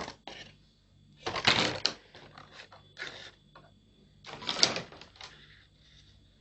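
A plastic bottle craft piece being handled, with scattered clicks and two louder rustling bursts, one about a second in and one near the end.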